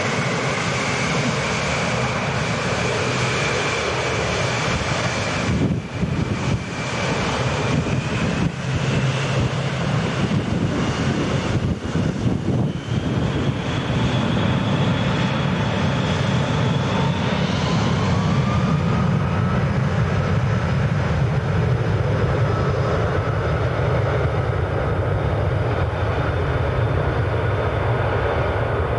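Jet aircraft engines running: a steady rumble with a thin turbine whine that rises in pitch in steps, and a few brief dips in the sound a third of the way through.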